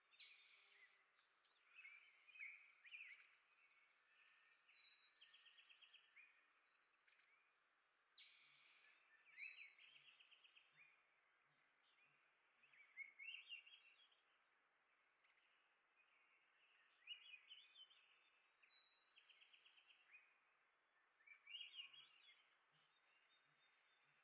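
Small songbirds chirping and twittering, faint, with a short rapid trill three times, over soft outdoor background noise.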